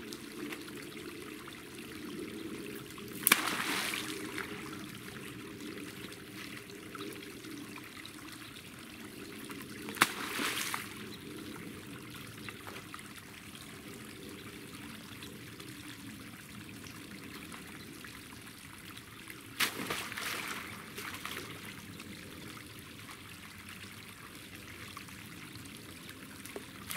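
Water trickling steadily, with three sudden sharp hits about 3, 10 and 20 seconds in.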